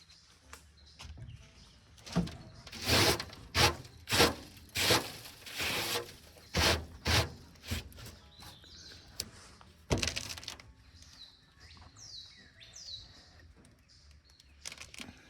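Metal clanks and scrapes, about a dozen over six seconds and then a single sharp knock, as the air cleaner is worked off the carburetor of a 1950 Chevrolet truck's engine. Small birds chirp in the background.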